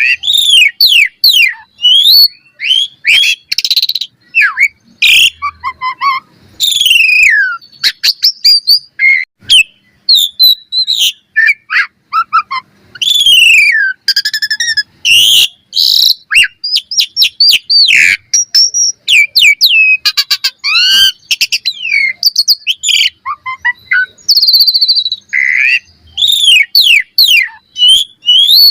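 Asian pied starling (jalak suren) singing a long, loud, fast stream of varied whistles, chatters and clicks, many notes sliding downward, with only brief pauses between phrases.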